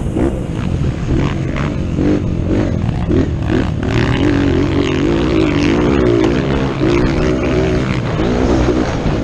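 Motocross dirt bike engine running hard, its pitch rising and falling as the throttle is worked, with loud rumble throughout.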